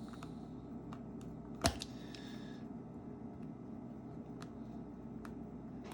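A few faint small clicks and taps of a precision screwdriver and tiny screws on the phone's internal metal parts, with one sharper click about a second and a half in, over a steady low hum.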